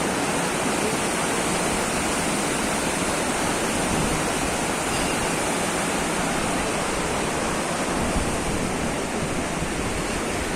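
Fast mountain river water rushing steadily, an even unbroken noise of flowing water.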